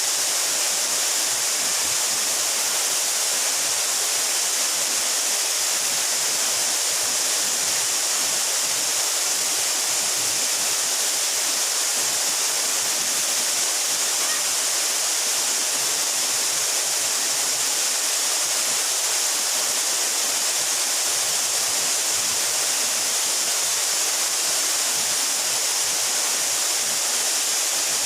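Mountain waterfall about 12 m high, a steady, unbroken rush of falling and splashing water, brightest in its upper hiss.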